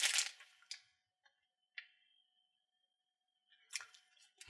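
Candy wrapper crinkling that dies away within half a second, then near quiet broken by a few faint clicks and taps.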